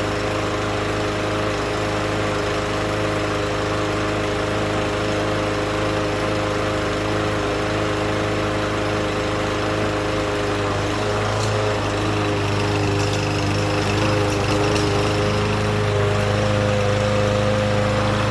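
Small gasoline lawnmower engine running steadily at a constant speed, with a few light clicks in the second half.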